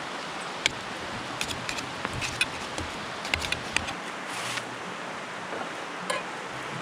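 Steady rushing of a stream, with scattered light clicks and taps over it.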